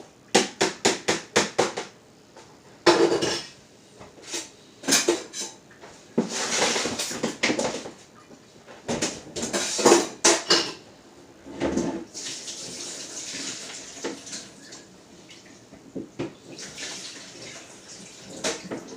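Raw chicken being washed by hand in a dish with water: a quick run of knocks and clatters against the dish at the start, then irregular clatters with splashing and running water.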